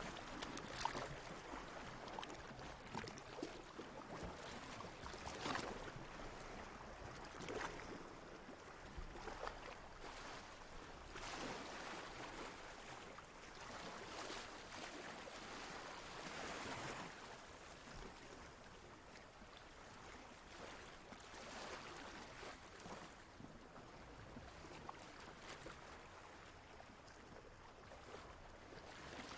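Water lapping and splashing softly, with small irregular surges every second or two.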